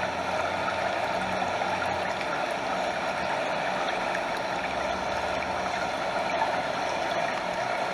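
Stream water flowing steadily over a small waterfall: an even, unbroken rush of water.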